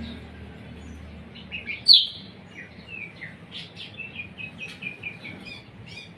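A songbird singing: a loud, sharp note about two seconds in, then a quick run of short chirping notes at about four or five a second.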